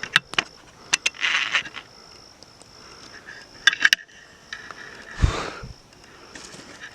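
Footsteps and scuffs on a forest trail: a handful of sharp clicks and crunches, with a low thud about five seconds in. A thin, steady, high insect drone runs under them.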